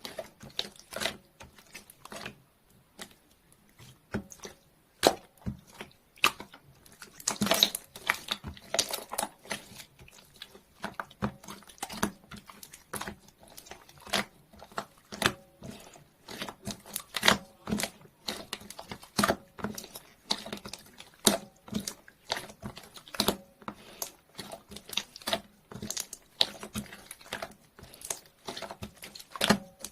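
Clear slime being worked by hand, making irregular wet clicks, pops and squishes, a few every second, with a busier stretch about a third of the way in.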